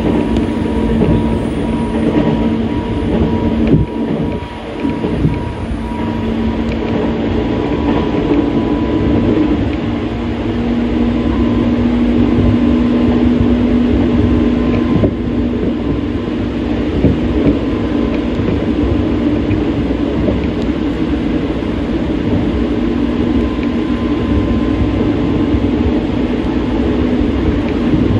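Hanshin Railway commuter train running, heard from inside the carriage: a steady rumble of wheels on rail with a constant hum and a faint steady whine over it. The sound dips briefly about four seconds in.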